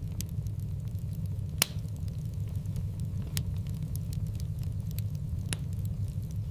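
Wood fire burning in a fireplace: a steady low rumble of flames with scattered sharp crackling pops, the loudest about one and a half seconds in.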